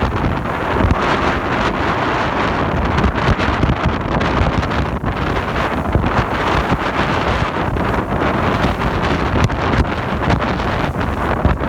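Strong wind buffeting the microphone aboard a sailing yacht, a steady dense rush with heavy low rumble, over the wash of waves.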